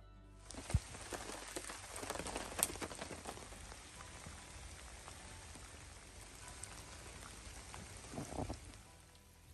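Steady rain falling on the lake and pattering on an upturned canoe hull, with a few sharper drop hits. It starts about half a second in and eases off near the end.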